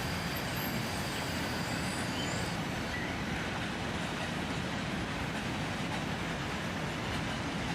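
Freight train cars rolling past on the track: a steady, even rumble and rush of steel wheels on rail.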